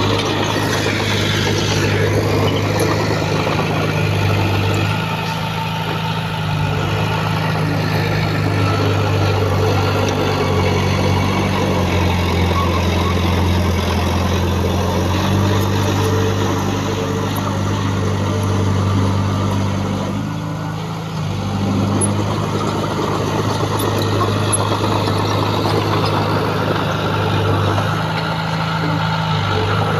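Diesel engine of heavy earthmoving equipment running steadily, its pitch stepping up and down several times as the load changes, easing off briefly about twenty seconds in.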